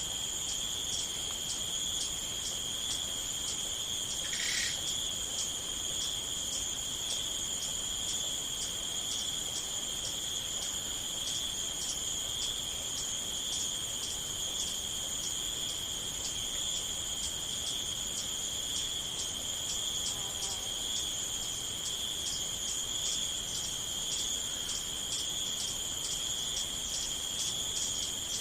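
Crickets chorusing: a steady high trill with an even chirping, about two to three chirps a second, running over it. A short separate call sounds once about four and a half seconds in.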